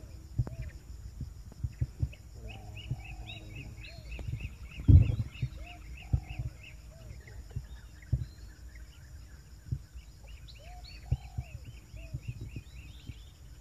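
Forest birds calling: short, arched whistled notes repeated about once a second, and a fast run of higher chirps from about two to five seconds in, over a steady high buzz. Scattered low thumps run under them, the loudest about five seconds in.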